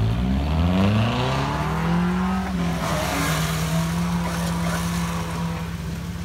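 A car engine revving up under load, its pitch climbing over about two and a half seconds and then held steady at high revs, as the stuck car is driven out while being winched free.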